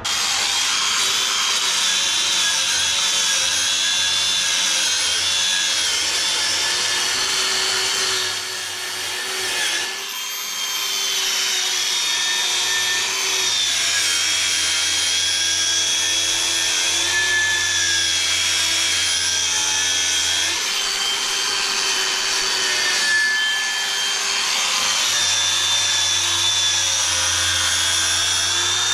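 Handheld angle grinder running against steel welds, a steady whine that wavers as pressure on the work changes, easing briefly about eight seconds in and again around twenty seconds in.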